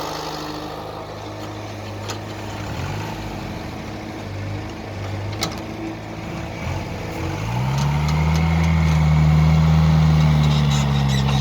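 Heavy diesel engine running at idle, revved briefly twice, then rising to high revs about seven seconds in and holding there, louder. A couple of sharp clicks are heard in between.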